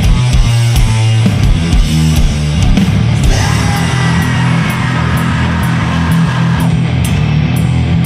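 Sludge metal: heavily distorted guitars and bass with drums. A choppy riff gives way about three seconds in to held chords, with a high note ringing over them for a few seconds and a cymbal struck at a steady beat.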